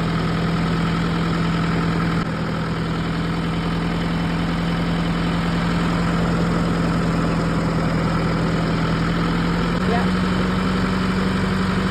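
John Deere tractor engine running steadily while the tractor is driven, its note stepping up slightly about ten seconds in.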